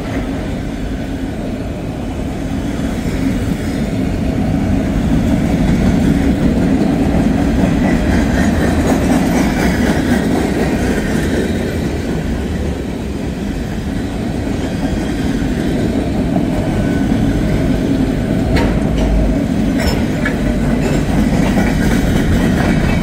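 Freight train cars rolling past at close range: a steady rumble of steel wheels on rail that grows louder over the first few seconds, with a few sharp clicks late on.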